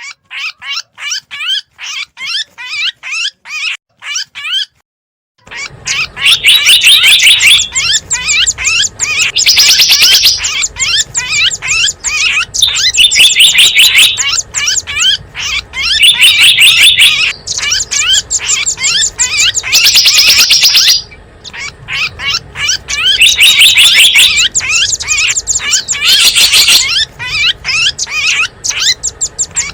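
Small wild songbirds chirping and twittering fast and high, as played on a bird-lure recording. The chirps are sparse at first; after a short break about five seconds in, they come in dense, loud runs, phrase after phrase.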